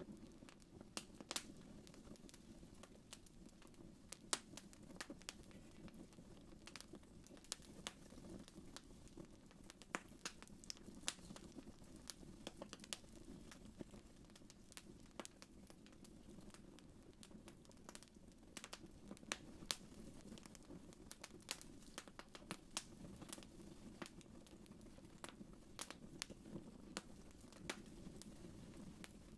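Wood fire crackling, with irregular sharp pops and snaps over a soft, steady low rumble.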